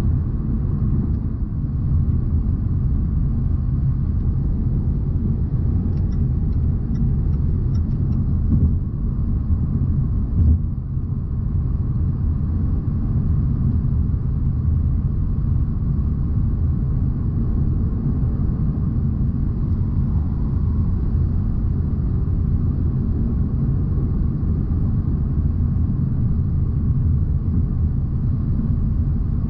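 Steady low rumble of a 2020 Jaguar XE P300 on the move: its 2.0-litre turbocharged four-cylinder and tyre noise while cruising. A few faint regular ticks come about six to eight seconds in, and a brief thump about ten seconds in.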